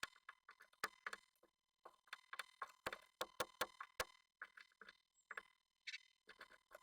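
Faint, irregular tapping and scratching inside a wooden nest box, a few taps a second: a Japanese tit moving about, its claws and beak knocking on the wood. A faint steady tone hums underneath.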